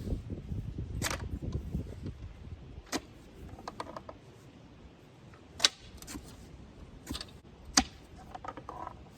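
Scattered sharp clicks and knocks, about six or seven spread unevenly, over a low rumble that fades during the first two seconds.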